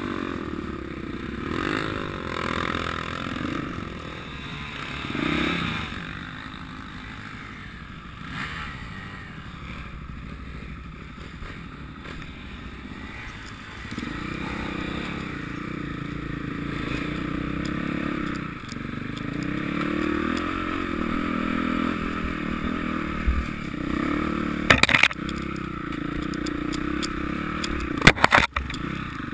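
Motocross motorcycle engines running and revving, their pitch rising and falling as the bikes accelerate and pass. A few sharp knocks break through near the end.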